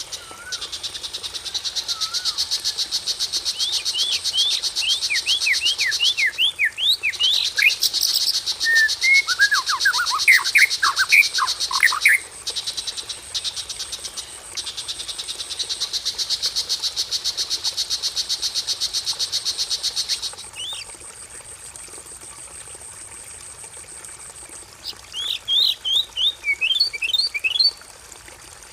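Songbird calling in quick runs of sharp, descending chirps, three bursts in all, over a continuous, loud, rapidly pulsing high trill. The trill cuts out about 20 seconds in.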